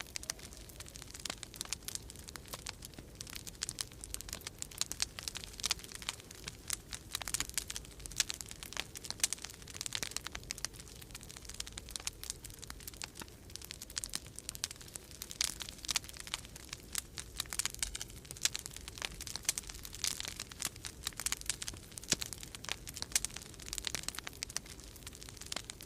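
Wood fire in a fireplace crackling, with dense, irregular snaps and pops, over a low steady rumble of storm wind.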